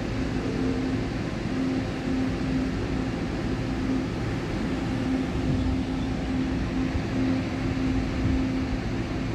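Taiwan Railway electric train hauled by locomotive E1032, its electrical equipment giving a steady hum with a droning tone that fades in and out.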